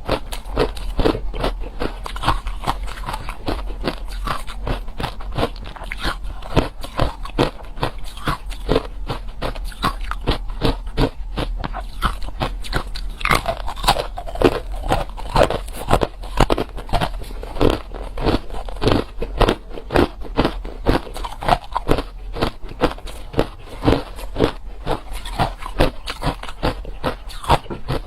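A person chewing crushed hard ice close to the microphone: a steady run of loud, irregular crunches, several a second.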